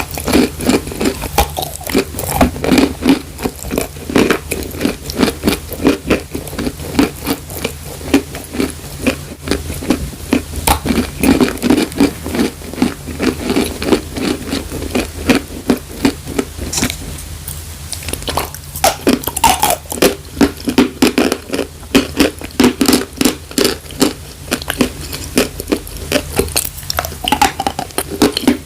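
Dry chalk being bitten and chewed close to the microphone: loud, rapid crunching, with a brief pause a little past halfway.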